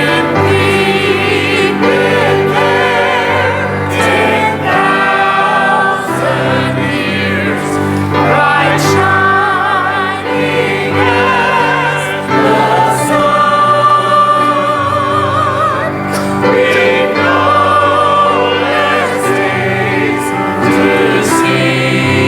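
Choir singing a gospel hymn with sustained instrumental accompaniment, voices held with vibrato.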